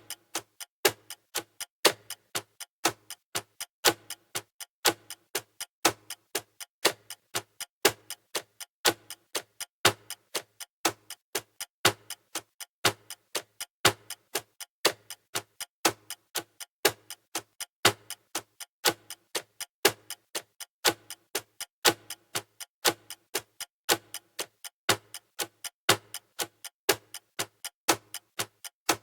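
Clock-style ticking of a countdown timer, steady and even, with a louder tick about once a second and quieter ticks between.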